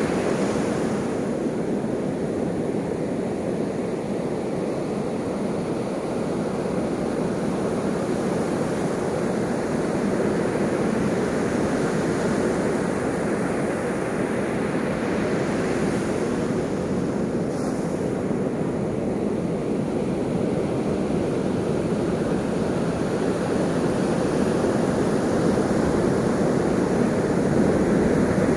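Ocean waves washing in surf, a steady rushing noise that swells slowly and ebbs.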